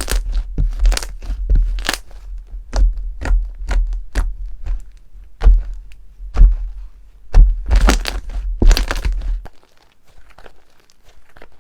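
Slime being squeezed and pressed by hand, a quick run of sharp crackling pops and soft thuds that stops about nine and a half seconds in, leaving only faint crackles.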